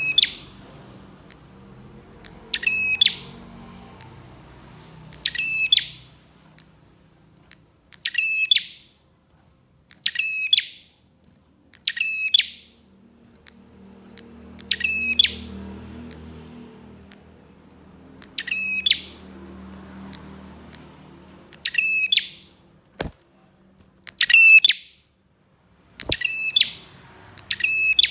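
Prenjak songbird giving a loud, short, sharp call over and over, about every two to three seconds. Two sharp clicks come in the second half.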